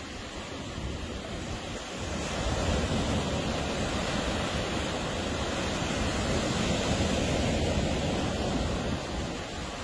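Ocean surf breaking on a beach: a steady wash of waves that swells about two seconds in and eases near the end, with some wind on the microphone.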